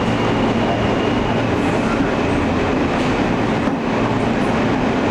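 An Alstom R160A subway car running along the track, heard from inside: a steady, loud rumble of wheels on rail with a steady low hum underneath.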